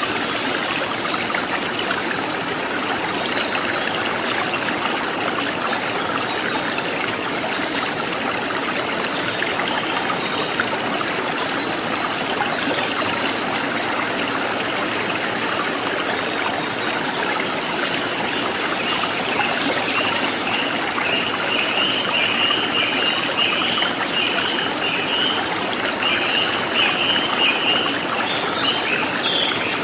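Forest stream trickling and splashing steadily. From about two-thirds of the way in, a wild bird joins with a rapid run of high chirps.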